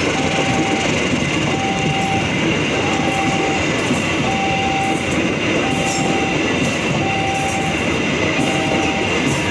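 Passenger train carriages passing close at speed, with a steady loud rush and rumble of wheels on the rails. Over it, a short beeping tone repeats evenly about every second and a half.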